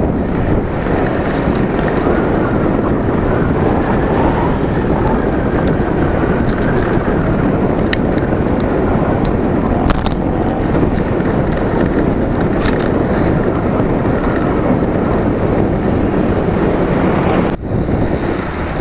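Steady wind rushing over the microphone of a camera on a moving bicycle, with road traffic rumbling underneath. A few faint clicks sound along the way.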